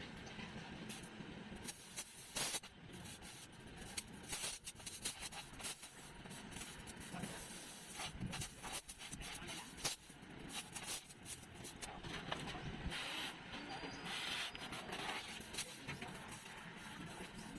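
Electric arc welder spot-welding a steel patch onto a vehicle's rusted floor pan: short, irregular bursts of crackling and sputtering.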